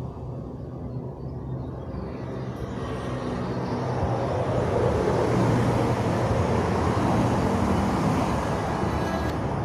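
An engine running steadily with a low hum. A rushing noise swells over the first few seconds and stays loud.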